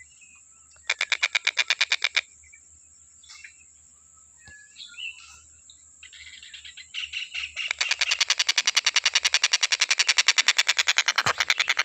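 Tengkek buto kingfisher calling: a fast run of rapidly repeated chirps about a second in, a few scattered short calls, then an unbroken rapid chattering series of chirps from about two-thirds of the way through.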